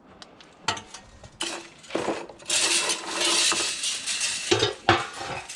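Scrap metal being handled and rummaged through: a few sharp clinks, then a longer clattering rattle through the middle, then more knocks near the end.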